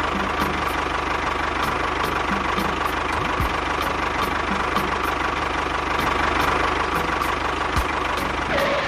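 Tractor engine running steadily with a fast, even low chugging and a constant hum.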